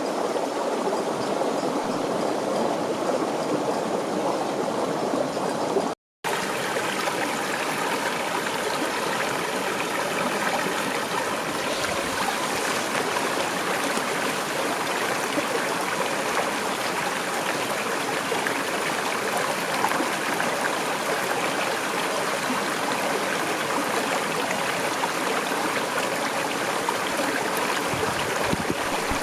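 Steady rushing of running water, like a stream. There is a sudden break just after six seconds, after which the water sound is slightly brighter.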